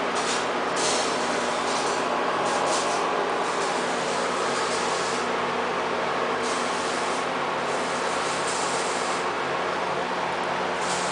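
CNC plasma cutting machine running: a steady hiss over a constant hum, with bursts of sharper hissing coming and going every second or so.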